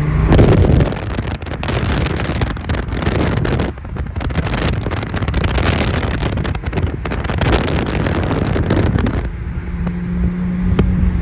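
Infiniti G35's 3.5-litre V6 running through an ISR single-exit exhaust as the car drives, heavily buffeted by wind noise on the microphone. The engine settles into a steady drone near the end.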